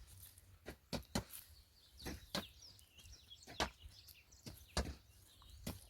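Hand hoes striking and cutting into soil in irregular strokes, about one or two a second, as ground is dug into planting ridges. Faint bird chirps sound in between.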